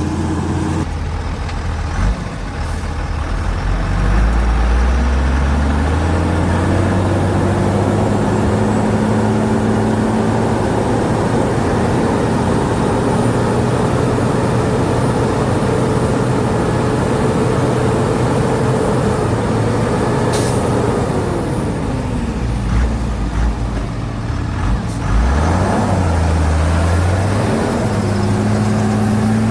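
Heavy diesel earthmoving engine working under load. It revs up a few seconds in, holds steady, drops back a little past two-thirds of the way through, then revs up again. A brief hiss comes about two-thirds of the way in.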